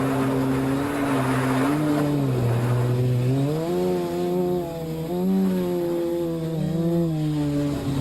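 Electric motors and propellers of a multirotor drone humming, the pitch stepping up and down as the throttle changes.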